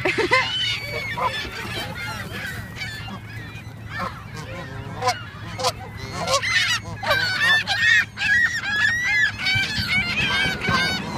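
A flock of geese honking, with many short calls overlapping, thickest in the second half.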